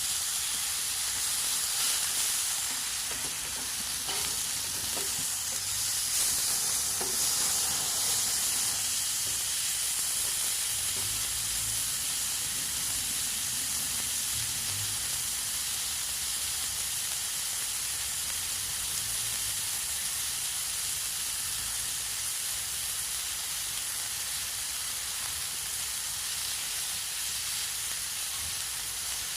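Steak sizzling and frying in a stainless steel frying pan over a wood fire, a steady hiss with a few faint crackles in the first third.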